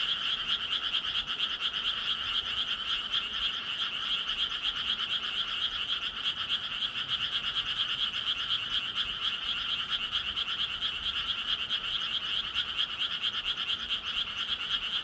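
A chorus of many frogs croaking at once, a dense rapid pulsing that carries on without a break.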